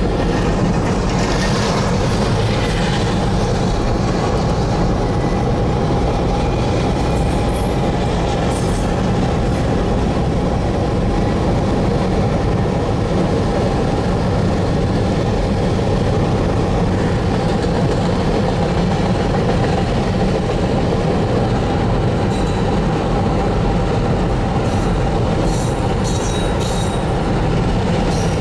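Freight train cars rolling past with a steady, loud rumble of steel wheels on rail. There is a faint clickety-clack, and a few brief high wheel squeals about a third of the way in and again near the end.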